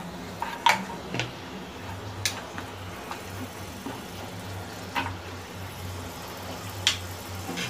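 Boiled mutton pieces frying in ghee and oil in a steel kadhai, a steady low sizzle, with a few sharp clinks of a steel spatula against the pan as the meat is turned.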